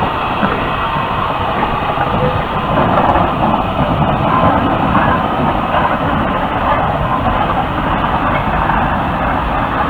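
Steam train making a steady, loud noise of running rail traffic, with no single event standing out.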